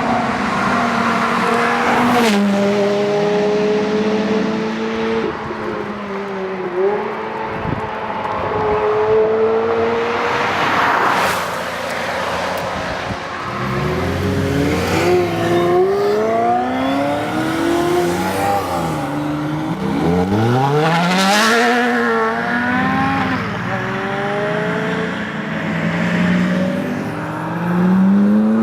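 Ferrari F430's V8 through a Capristo valved exhaust, revving and accelerating hard, its pitch climbing and dropping again several times. There are a few short sharp cracks along the way.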